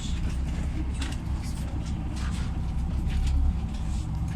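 Cabin noise of a LiAZ 5292.67 city bus on the move: a steady low rumble from its YaMZ-53624 compressed-natural-gas engine and the road, with scattered light rattles and clicks from the body.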